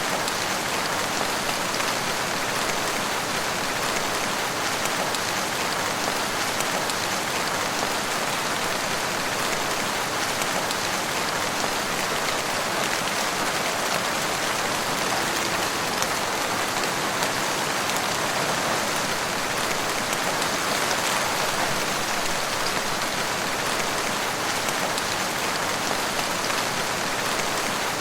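Steady rain falling, an even hiss of many drops with no breaks or thunder.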